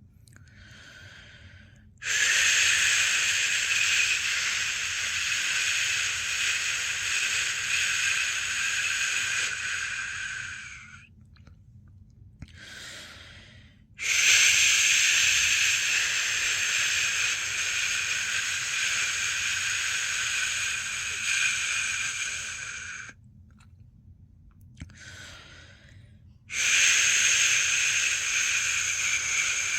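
A person making long "shhh" shushing sounds with the mouth to lull a newborn to sleep. Three shushes of about eight to nine seconds each, with short, quieter pauses for breath between them.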